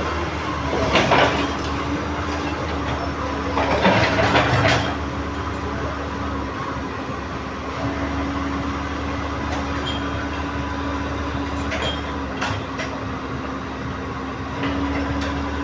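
Komatsu PC130 excavator's diesel engine running steadily, with loud metallic clanks about a second in and again around four seconds in, and a few lighter knocks later, from work on the steel track.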